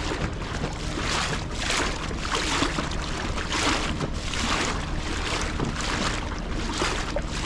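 Small boat under way: an outboard motor runs with a steady low hum while the hull swishes through small waves in a rushing rhythm about once a second.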